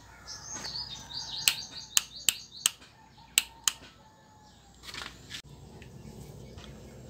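A small bird chirping in quick high runs through the first few seconds, with about six sharp clicks in between.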